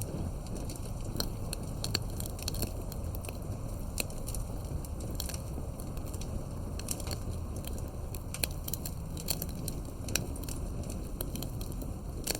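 Campfire burning, its wood crackling and popping in many sharp, irregular snaps over a steady low rush of the flames.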